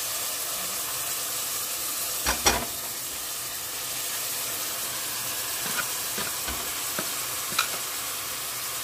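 Chopped carrots, onions and celery sizzling as they fry in oil in a pot, a steady hiss. Two sharp knocks come about two and a half seconds in, with a few lighter clicks later.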